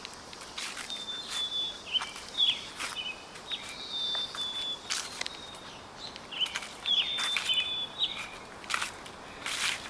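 Footsteps crunching through dry fallen leaves at a slow walking pace, while a small bird calls over and over in short, high chirps.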